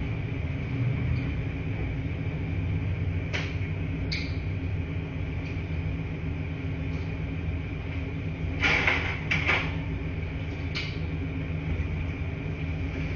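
Laundry-room machines, washers or dryers, running with a steady low hum. A few sharp clicks come through it: two around three to four seconds in, a short louder clatter about nine seconds in and one more click soon after.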